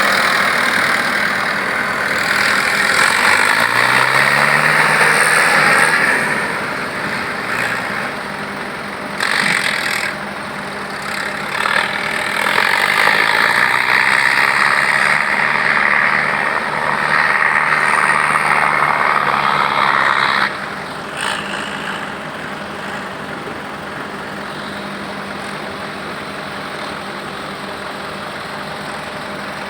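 Heavy vehicle engine running hard in several long stretches, its pitch rising about three seconds in, then dropping back to a steady idle after about twenty seconds.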